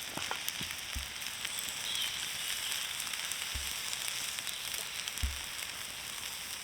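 Food sizzling on a hot cast iron griddle over a campfire: a steady sizzle with small crackles and spits running through it.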